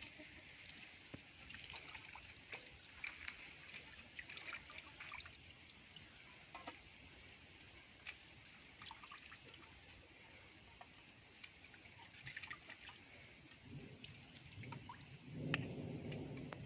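Water trickling and dripping, with many small splashes and clicks, as fish pieces are rinsed by hand in a bowl of water with salt and turmeric. A low rumble builds near the end.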